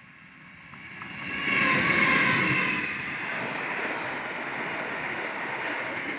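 Diesel locomotives at the head of an intermodal container freight train come up and pass close by, loudest about two seconds in. After that, the steady rolling noise of the container wagons going past.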